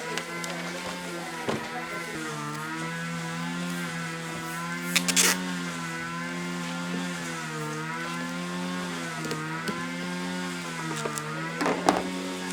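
A motor running with a steady hum whose pitch wavers and dips slightly, as if under changing load. There is a sharp knock about five seconds in and another near the end.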